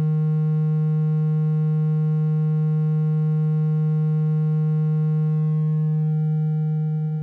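Steady low electronic tone with overtones, the vibration sound played to shake water out of a wet phone or earphone speaker. The higher overtones drop away about six seconds in.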